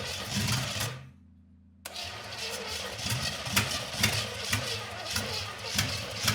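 Small-block Chevy 350 V8 cranking and sputtering with irregular sharp pops, firing unevenly but never catching and running. The engine is starved of fuel by a carburetor with no working accelerator pump. The sound drops out briefly a little after a second in.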